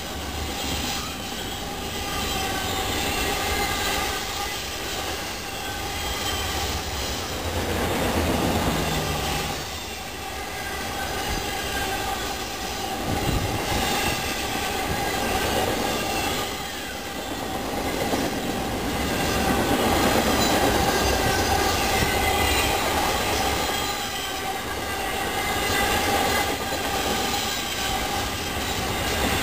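Intermodal freight train's container and trailer cars rolling past, with a steady rumble of wheels on rail and a continuous high squeal of wheel flanges on the curve.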